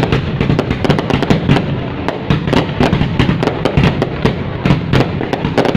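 Fireworks going off in a dense barrage: many sharp bangs a second, close together and overlapping, over continuous crackling.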